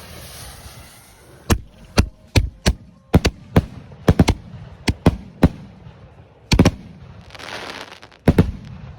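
Homemade 500 g firework cake firing: a rapid, irregular string of sharp bangs, about fifteen in all, with a hissing crackle for about a second between two of them, about three-quarters of the way through.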